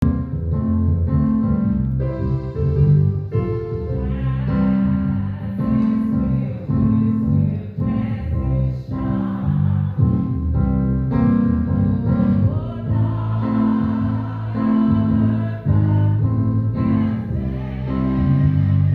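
A choir singing a gospel hymn, with held notes that change about once a second.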